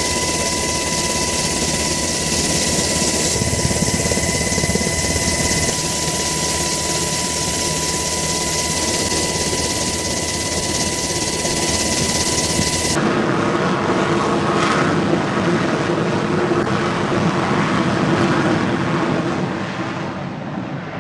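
Jet aircraft engine running: a broad rush with a steady high whine. About thirteen seconds in, the sound changes abruptly to a duller rush, which fades near the end.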